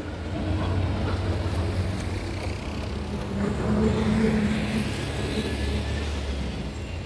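A motor vehicle's engine running as it drives, with a steady low rumble that swells louder about halfway through.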